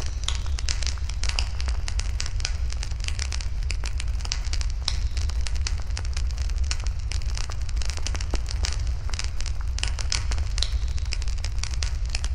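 Wood fire burning in a fire pit: dense, irregular crackling and popping over a steady low rumble.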